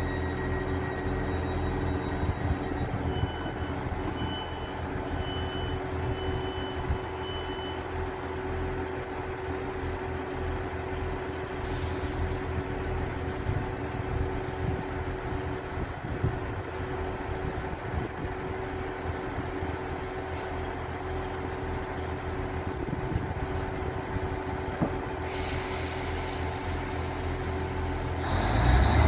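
A train's engine running steadily with a low hum. A few seconds in, about five short high beeps sound about a second apart. Air hisses out briefly near the middle and again for several seconds near the end.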